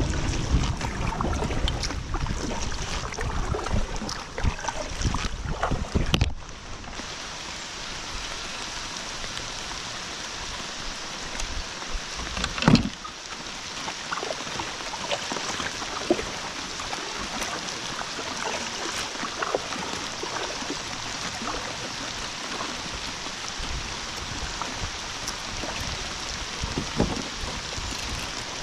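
River water running with an even hiss, with wind buffeting the microphone for the first six seconds. A single sharp knock about halfway through, among lighter scattered ticks.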